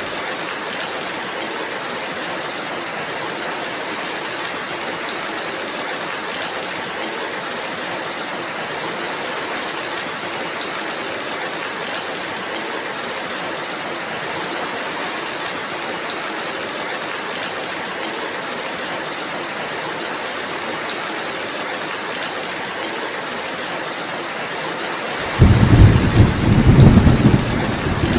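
Steady rain falling as an even hiss. Near the end a loud low rumble of thunder rolls in.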